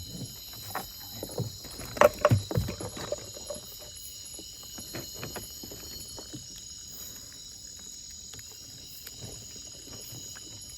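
Knocks and thumps in a small boat as a fishing net and its catch are handled, the loudest cluster about two seconds in, followed by lighter scattered taps.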